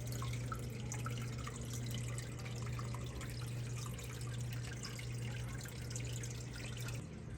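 Water dripping and trickling over a steady low hum; the hum stops shortly before the end.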